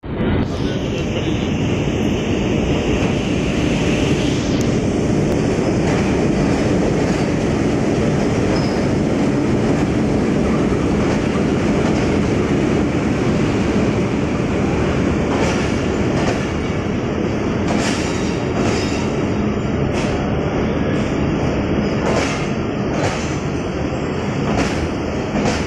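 Pakistan Railways passenger train rolling past along the platform: a steady heavy rumble of wheels on rail, with clicks from the wheels crossing rail joints coming in the second half.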